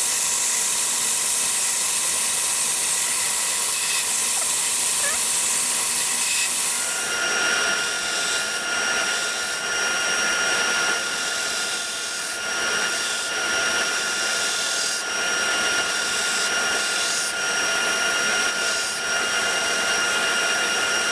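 A power tool running with a steady high hiss; about seven seconds in, several steady whining tones set in over it and hold.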